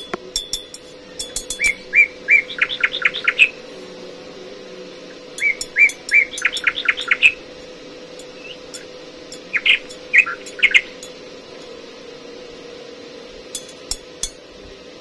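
A songbird singing three short phrases of quick repeated chirps, with a few light clicks near the start and again near the end over a faint steady hum.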